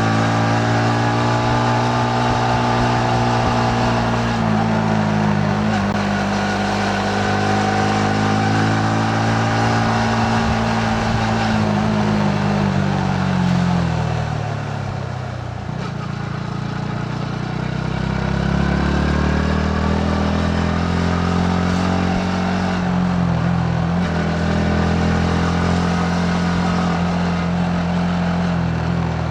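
Yamaha MT-15 motorcycle's single-cylinder four-stroke engine under way. It holds steady revs, falls off for a few seconds about halfway through as the bike slows, then rises again as it accelerates, with a brief dip in revs a few seconds later before settling steady.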